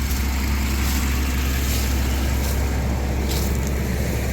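2004 Honda Accord engine idling steadily, running again after a no-start.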